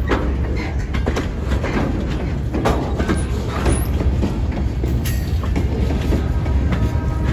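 Loaded freight cars, centerbeam flatcars stacked with lumber and boxcars, rolling past on the rails: a steady low rumble with irregular clacks of the wheels over the rail joints.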